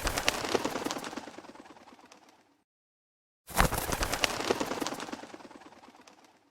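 Wood fire crackling: dense crackles and pops over a hiss that fade out over a few seconds, drop to silence, and start again suddenly about halfway through.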